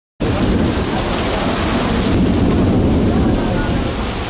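Heavy thunderstorm downpour: rain pouring down, with a deep rumble underneath. It cuts in suddenly just after the start.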